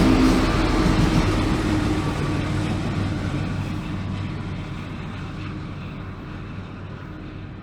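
A Union Pacific freight train moving away: a rumble with a steady low drone that fades evenly into the distance.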